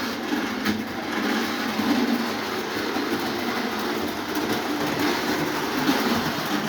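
Lionel O27 toy trains running steadily on the track, a continuous whir of electric motors and wheels on the rails.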